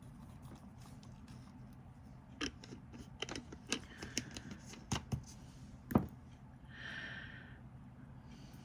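Irregular light clicks and taps from handling small manicure tools and nail polish strips, the loudest about six seconds in, followed by a brief soft scratch.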